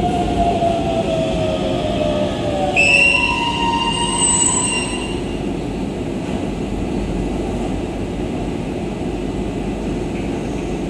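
Hokuso Railway 7300 series electric train braking into a station: its motor whine falls in pitch as it slows, then the brakes squeal in several high tones for about two seconds, starting about three seconds in, before the train stands with a steady rumble.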